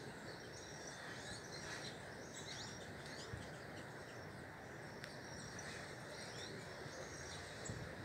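Birds chirping faintly, with short, high notes and quick falling calls scattered throughout, over a steady background hiss.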